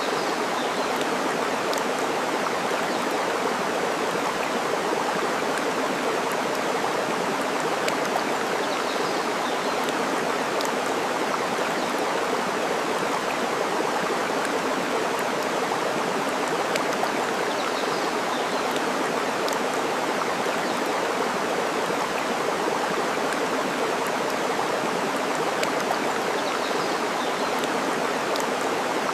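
Steady running water, with sharp pops from a wood fire burning and crackling throughout. Faint high chirps come about every nine seconds.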